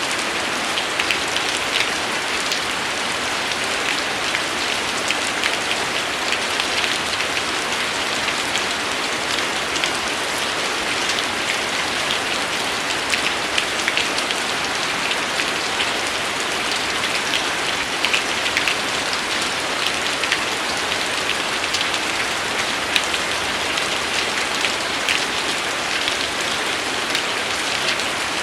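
Steady rain falling on a surface, an even hiss with many sharp little drop ticks scattered through it.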